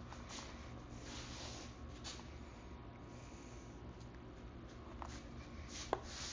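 Soft rustling and scratching of small parts being handled, over a low steady hum, with one sharp click near the end.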